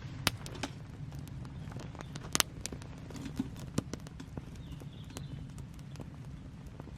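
Wood fire crackling: irregular sharp pops and clicks, with a few louder cracks about a quarter second, two and a half seconds and four seconds in, over a steady low rush.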